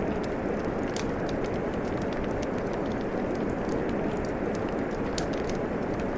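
Steady rain falling, mixed with a crackling wood fire that gives off scattered sharp pops, the clearest about a second in and about five seconds in.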